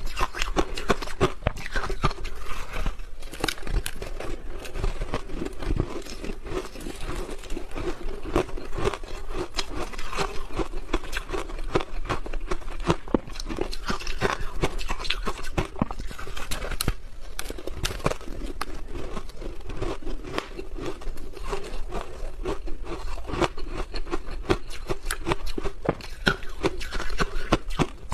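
Crunchy ice being bitten and chewed: dense, continuous crunching and cracking with many sharp crackles.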